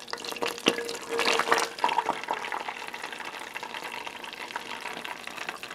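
Heavy whipping cream being poured into a saucepan of melted butter. The pouring is loudest in the first two seconds, then gives way to a faint, steady sizzle in the pan.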